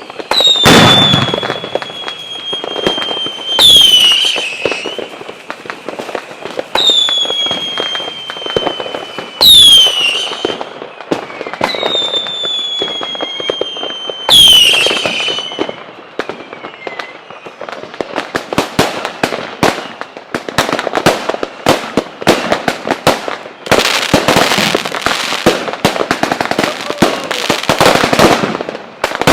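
Fireworks display: a series of whistling fireworks, each a long whistle that slowly falls in pitch, going off every two to three seconds. About halfway through these give way to dense, rapid crackling and popping that grows thicker towards the end.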